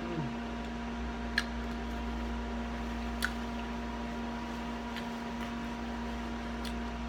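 Someone quietly chewing a mouthful of shrimp pasta salad: four short, sharp, wet mouth clicks roughly every one and a half to two seconds, over a steady electrical hum in the room.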